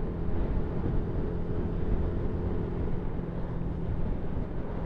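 Yamaha MT-125's single-cylinder four-stroke engine running at a steady cruising speed, with a steady rush of wind and road noise on the action camera's microphone.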